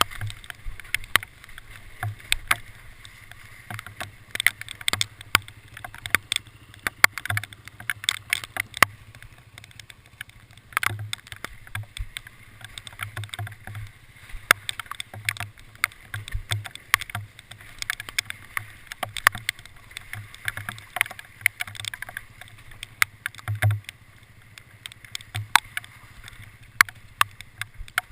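Hail striking a vehicle: a dense, irregular run of sharp ticks and knocks, over a low steady hum.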